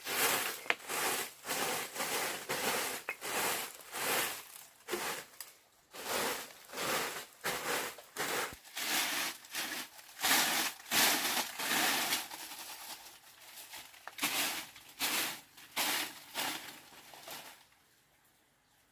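Rhythmic crunching and crinkling strokes, about two or three a second, that stop near the end.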